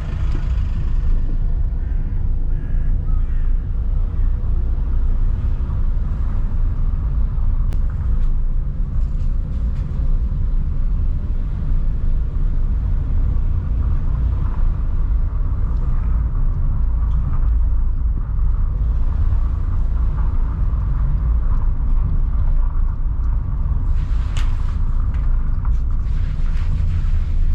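A car being driven, with a steady low rumble of engine, tyre and road noise.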